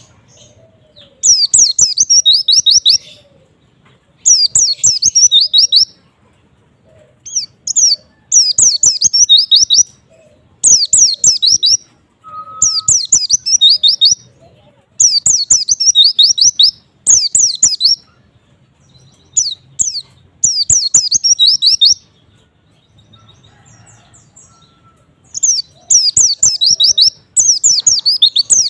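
White-eye (pleci) singing fast, high twittering phrases of one to two seconds each, repeated about a dozen times with short pauses between.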